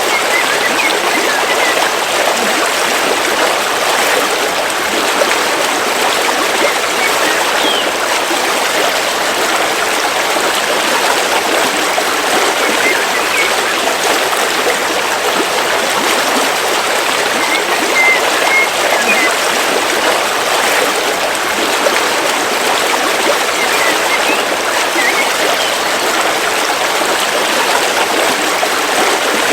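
River water flowing steadily, an even, continuous rush.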